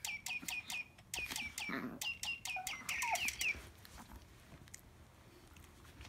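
Small pet bird calling in a fast run of sharp chirps, each dropping in pitch. The chirps thin out and go fainter about three and a half seconds in.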